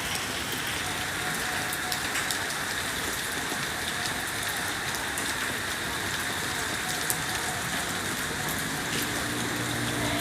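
Steady rain falling, a continuous hiss with scattered ticks of drops striking surfaces.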